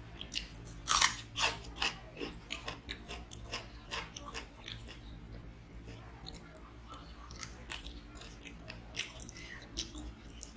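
Close-miked mouth sounds of a person chewing and biting a mouthful of chicken curry and rice: a run of short, sharp wet clicks, loudest about a second in, over a low steady hum.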